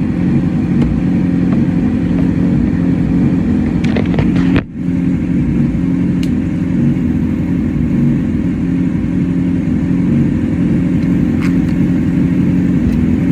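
Motorcycle engine running at a steady speed under way, with road and wind noise. The sound dips briefly about four and a half seconds in, then carries on as before.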